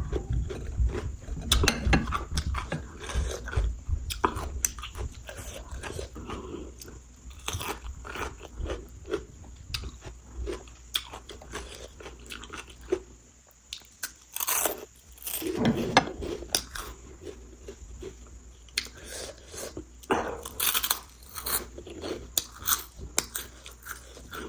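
Close-up chewing and biting of food, with irregular crunchy crackles and mouth sounds.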